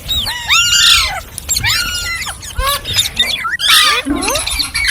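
Ringneck parrot calling: bursts of short, shrill calls that rise and fall in pitch, several overlapping, coming about once a second.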